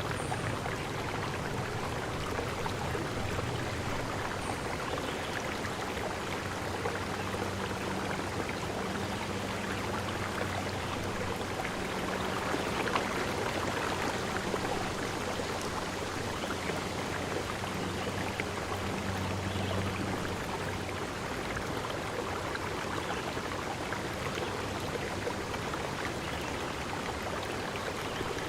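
Flowing stream water, a steady rushing and trickling. A faint low hum comes and goes beneath it for the first two-thirds.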